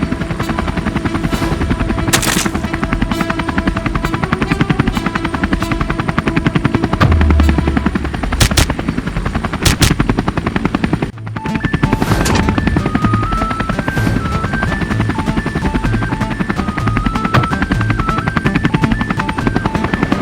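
A fast, steady, rhythmic chopping vehicle sound effect over children's background music. There is a brief break about eleven seconds in, after which a simple stepped melody comes forward.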